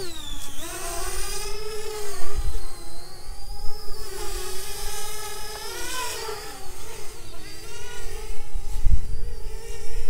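Parrot Bebop 2 quadcopter's electric motors and propellers whining in flight, the pitch rising and falling over and over as the drone is thrown around in sport mode.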